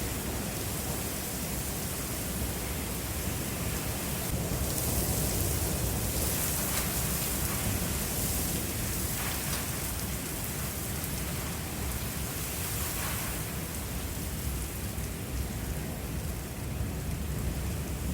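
Thunderstorm: steady rain and wind noise with a deep rumble underneath, from a severe-warned supercell.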